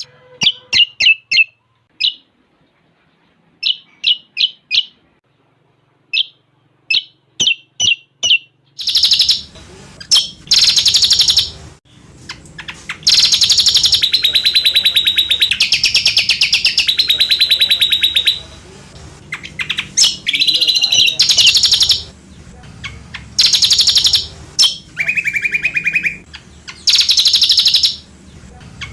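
Cucak combok song: sharp single chirps for the first several seconds, then from about nine seconds in long, fast trilled phrases of rapidly repeated high notes, some running on for several seconds.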